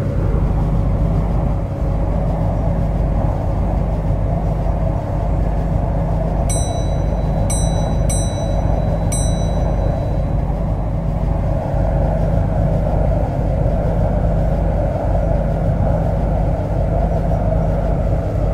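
MTR Kwun Tong Line C-Train electric train running, a steady low rumble with a faint even hum. Four short high electronic beeps sound about six to nine seconds in.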